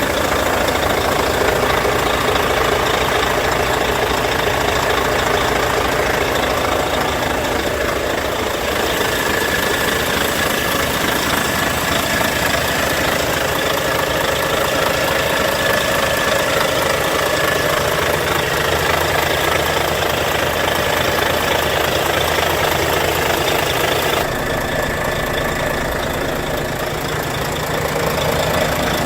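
Volvo FH 540 truck's D13K six-cylinder diesel engine idling steadily; its tone shifts slightly about a third of the way in and again near the end.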